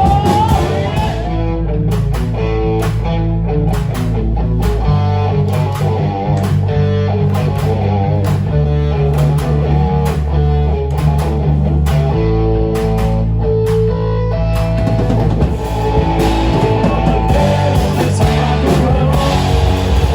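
Rock music with guitar and drum kit at a steady loud level.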